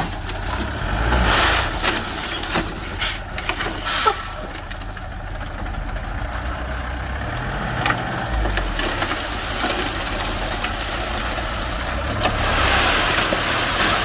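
Heavy diesel vehicle engines running steadily, with a few sharp knocks or clanks in the first few seconds.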